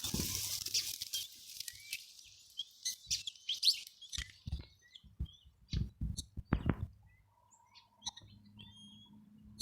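A flock of small birds chirping. Dense chatter at first thins out after about two seconds into scattered short calls. A handful of sharp knocks fall in the middle.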